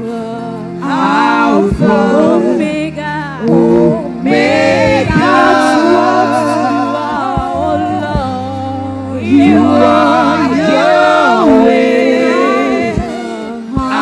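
Gospel praise singing: a voice sings long, wavering lines over held low accompaniment notes.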